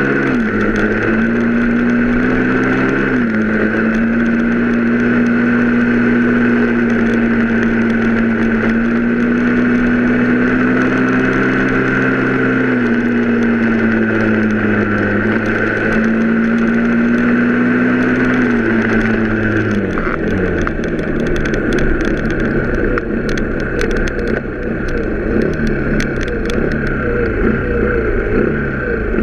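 Vehicle engine running steadily on the road, its pitch stepping down a few times. From about two-thirds of the way in, the engine note wavers rapidly up and down.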